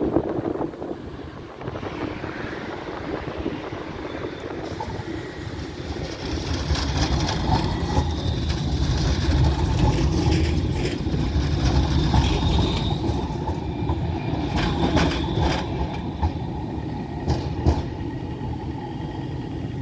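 A tram passing, its low rolling rumble building over several seconds, then wheels clacking over the track in quick groups of knocks in the second half.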